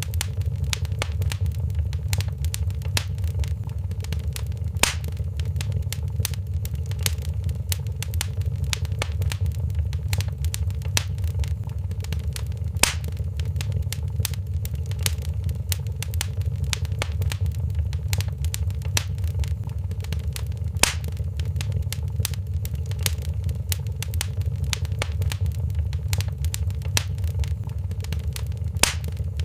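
Wood fire crackling in a fireplace: a steady stream of small crackles over a low, steady rumble, with a louder pop about every eight seconds.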